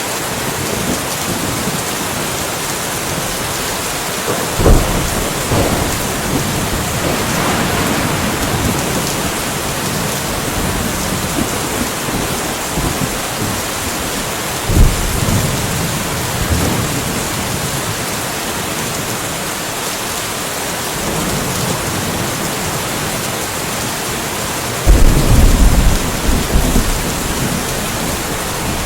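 Steady rain falling, with thunder: two sudden claps of thunder a few seconds in and about halfway through, then a longer, louder roll of thunder near the end.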